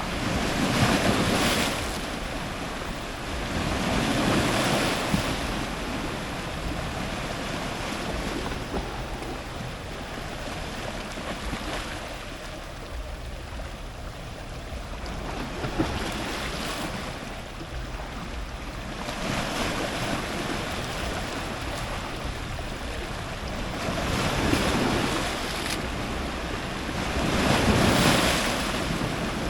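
Ocean surf breaking on rocks, each wave washing in and draining away in slow surges. The wash is loudest just after the start and again near the end, and calmer through the middle.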